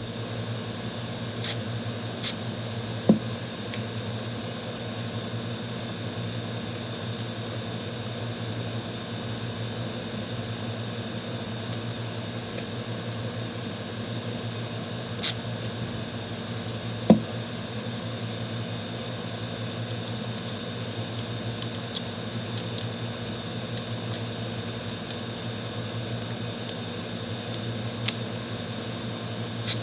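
Hot air rework station blowing steadily with a low hum and a faint whine, heating an IC to lift it off a laptop logic board, with a few light clicks of tools against the board.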